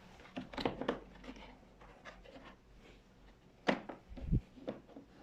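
Cardboard box and packaging handled and opened: scattered scrapes, rustles and knocks, the loudest two knocks coming about four seconds in.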